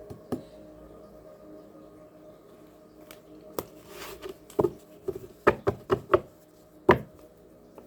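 Soft ambient background music with steady held tones. Over it come about a dozen sharp taps and knocks, mostly between three and a half and seven seconds in.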